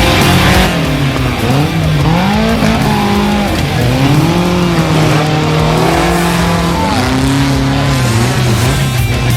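4x4 off-road vehicle's engine revving up and down under load, its pitch rising and falling every second or two.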